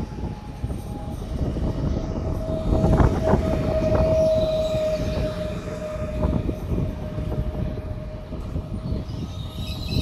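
A train passing on the line, its wheels rumbling on the rails, with a single steady tone held over it for most of the time, loudest about four seconds in.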